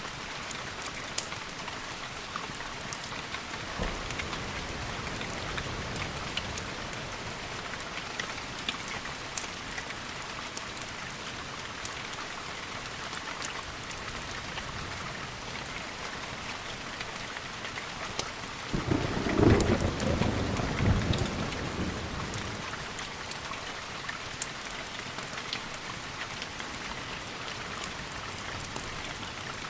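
Steady rain with scattered sharp ticks, and a roll of thunder rumbling low about two-thirds of the way through. A fainter rumble comes about four seconds in.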